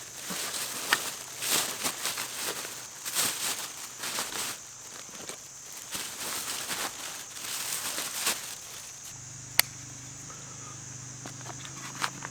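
Footsteps crunching on the ground outdoors, irregular steps through the first eight seconds, then a single sharp click. A steady high hiss runs underneath, and a low steady hum comes in for the last few seconds.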